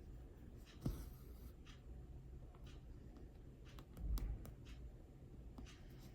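Faint, short swishes of needle and thread being pulled through 18-count cross-stitch fabric, with small ticks between them. There is a soft knock about a second in and a low thump about four seconds in.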